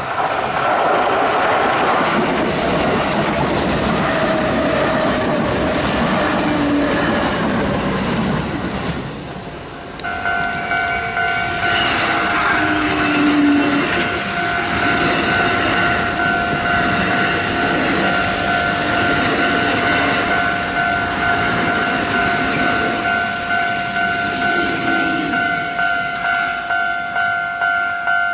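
A Kintetsu electric train running past close by, its wheels and motors loud on the track. After a cut, a railway level crossing's warning bell rings steadily in a repeating ding over the noise of trains passing the crossing.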